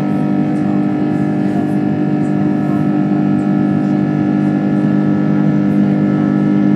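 Airbus A330-300's jet engines heard from inside the passenger cabin: a steady droning hum with a few faint rattles, growing slightly louder toward the end.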